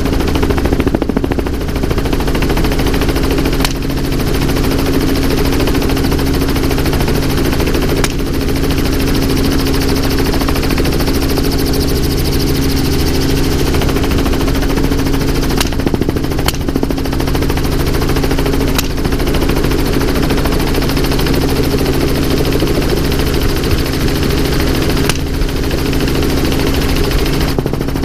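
Helicopter running steadily, its rotor and turbine drone making a constant low hum and chop, with a few sharp cracks spread through it.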